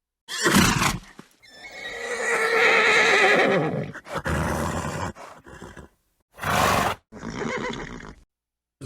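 A horse whinnying and snorting. A short snort comes first, then a long wavering neigh of about two and a half seconds that drops in pitch at its end, followed by several short snorts and blows.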